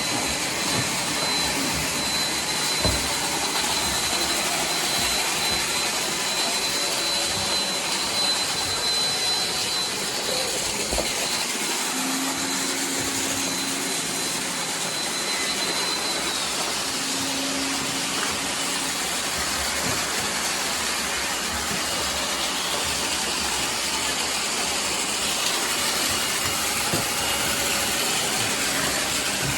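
Several robot vacuums running at once: a steady whir of suction motors and brushes, with a thin high whine that stops about halfway through.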